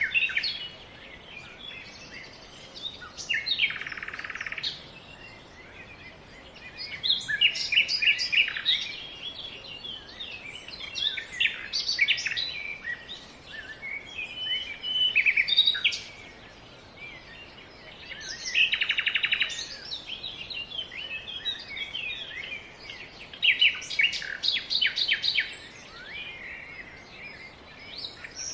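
Songbirds singing: bursts of high chirps and fast trills repeating every few seconds, over a faint steady outdoor hiss.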